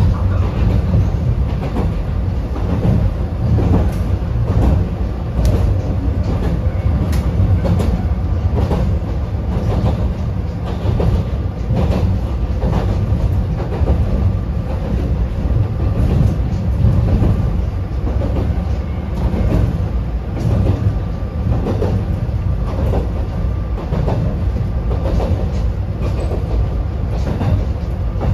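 Narrow-gauge Yokkaichi Asunarou Railway train running, heard from inside the passenger car: a steady low rumble with frequent clicks of the wheels over rail joints.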